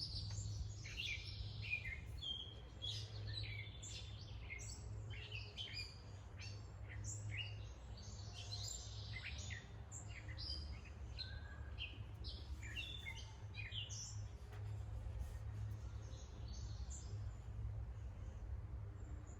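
Several small birds chirping and calling in quick, overlapping bursts, thinning out about two-thirds of the way through, over a steady low rumble.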